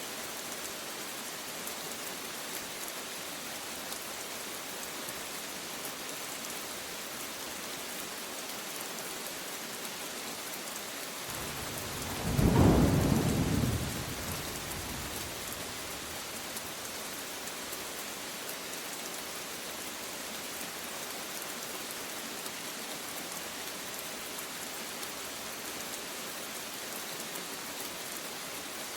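Steady rain falling, a constant hiss, with one rumble of thunder swelling about halfway through and dying away over a few seconds.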